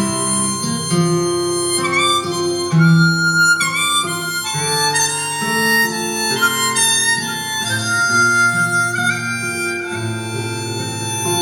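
Harmonica playing an instrumental solo in a slow song, a melody of held and sliding bent notes.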